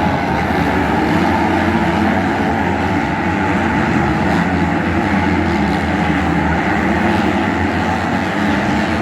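Motocross bike engines racing on the track, a loud steady mixed drone with no let-up.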